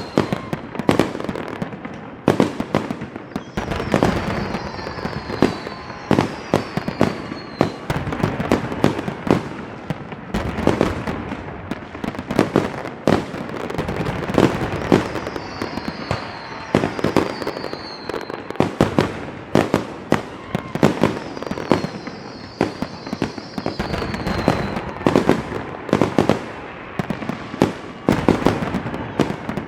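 Fireworks going off: a dense, continuous run of sharp bangs and crackles, with short falling whistles recurring every few seconds.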